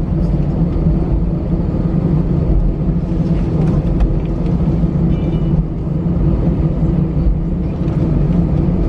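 Steady cabin noise inside an Airbus A319 jet airliner with its engines running: a low rumble with a constant hum. A brief faint high tone sounds about five seconds in.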